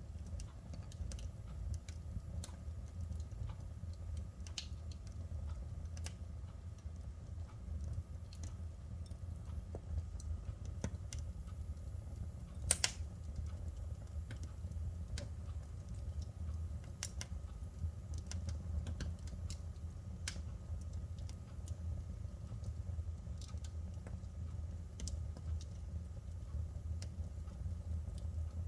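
Wood fire crackling: irregular sharp pops and ticks over a steady low rumble, with one louder double pop about halfway through.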